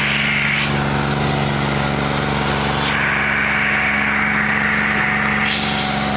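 Tractor diesel engine running steadily under load, with a hiss over it that drops away about three seconds in and returns near the end.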